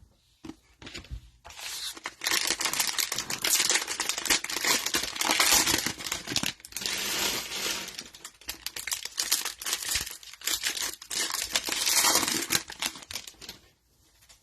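Cellophane wrapper of a 2022 Mosaic football cello pack crinkling and tearing as it is ripped open and its cards pulled out, in two long spells of crackling with a brief pause between them.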